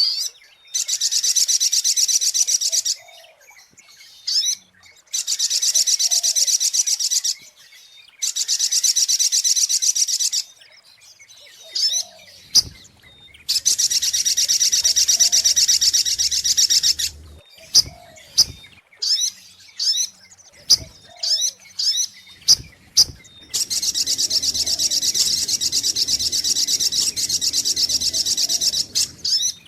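Sogok ontong (little spiderhunter) song played as a bird-trapping lure call: a series of long, very fast high trills, each lasting two to four seconds, with sharp single chip notes in the short pauses between them.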